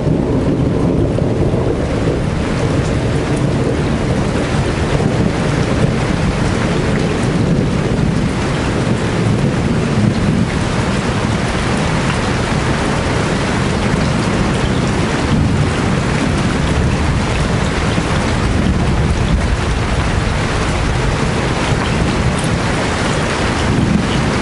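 Rain falling steadily and heavily, its hiss filling in about two seconds in, over a deep continuous rumble.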